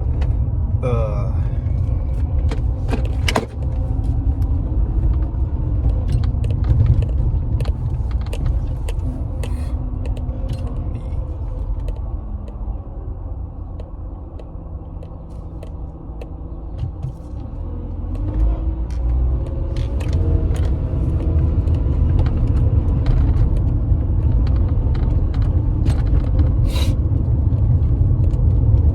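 Car being driven, heard from inside the cabin: a steady low engine and road rumble that eases off around the middle and builds again about two-thirds of the way through as the car picks up speed, with scattered small clicks and rattles.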